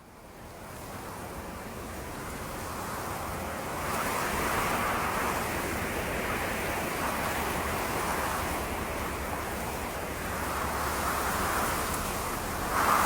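Steady rushing noise of waves and wind, fading in from silence at the start and swelling softly every couple of seconds.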